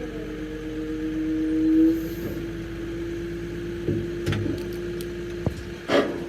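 A motor running with a steady hum that rises in pitch about two seconds in and then holds, with a few clicks and a louder knock near the end.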